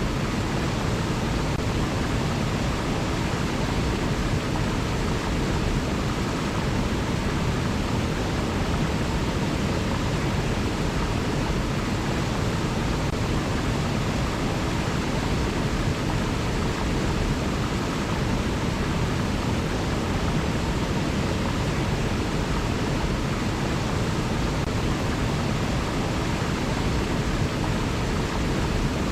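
River water rushing in an even, unbroken noise that holds steady throughout, with no birdsong or other events.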